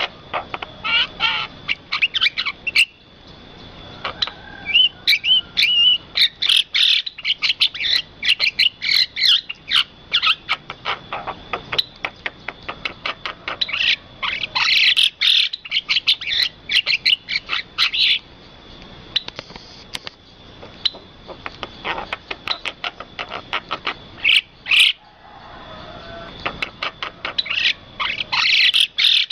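Birds chirping, many rapid short calls overlapping almost without pause, over a thin steady high tone.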